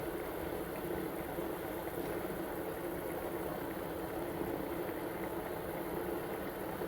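A pot of soup boiling steadily on the stove, an even bubbling hiss that neither builds nor dies away.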